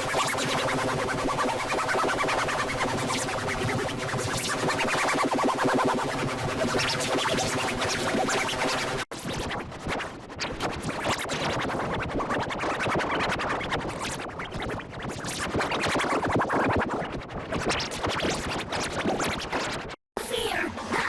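Heavily distorted, effects-processed music-like audio, with many stacked tones layered together. It cuts off suddenly about nine seconds in and gives way to a noisier, smeared section. That section drops out briefly just before the end.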